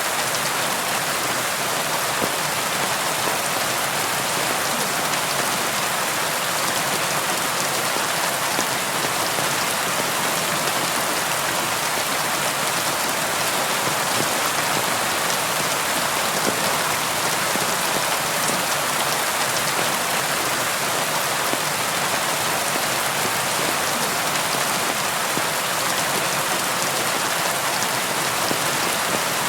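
Steady rain falling on a surface, an even hiss with fine pattering drops and no thunder.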